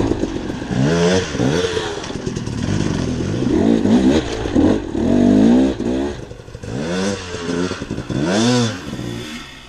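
Dirt bike engine revved up and down in short surges, about one a second, with the throttle opened and closed over and over.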